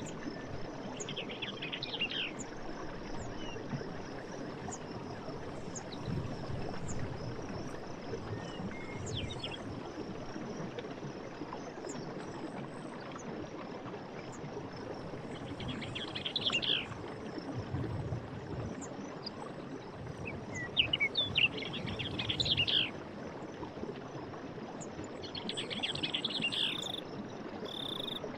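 Night forest ambience: a steady high chorus of crickets and other insects over a constant background hiss, with bursts of chirping animal calls every few seconds and a run of short repeated call notes near the end.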